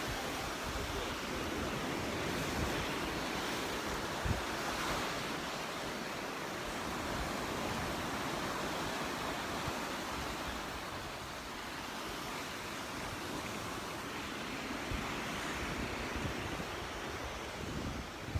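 Gentle Gulf surf washing steadily onto the beach, with wind buffeting the microphone now and then.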